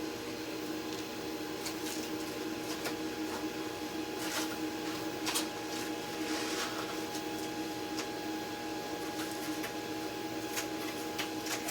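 A cutting machine running steadily with a constant motor hum, printer-like, and a few light clicks scattered through.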